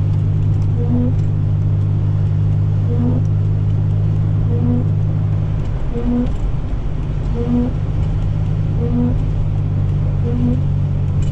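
Inside a car's cabin while driving: the steady low drone of engine and road noise, wavering briefly about halfway through. A short faint tone repeats about every second and a half over it.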